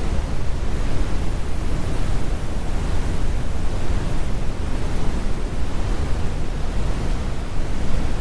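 Steady, unbroken brown noise: a deep, even rumble with its energy in the lows and the highs rolled off. It is computer-generated.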